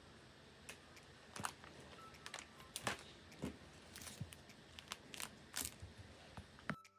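Irregular light clicks, taps and crinkling from handling food and kitchen items during fish preparation, over a steady background hiss. It cuts off abruptly near the end.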